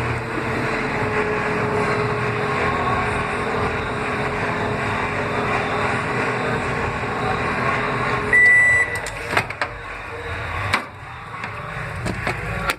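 Microwave oven running with a steady hum. About eight seconds in the hum stops with a single high beep, and a few clicks follow.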